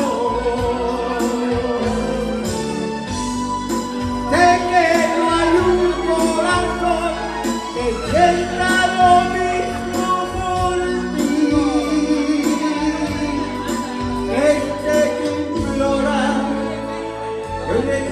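A Spanish-language love song with singing over instrumental accompaniment and a steady beat.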